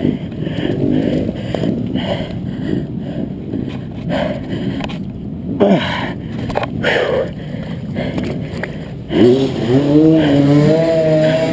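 Dirt bike engine running roughly in deep mud, then revved hard from about nine seconds in, its pitch rising and wavering.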